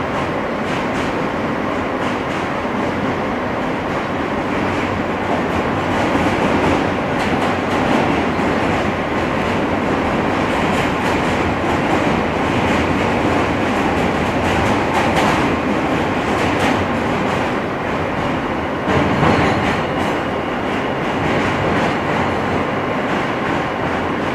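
R160 subway car running on the track, heard from inside the car: a steady rumble of wheels and rails with clicks over the rail joints, and a short louder surge about 19 seconds in.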